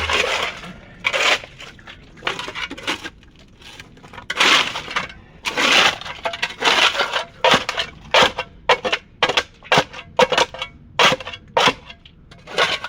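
Hand scraper being dragged in repeated strokes over a sailboat's hull, each stroke a short rasping scrape. The strokes are spaced out at first and speed up to about two a second in the second half.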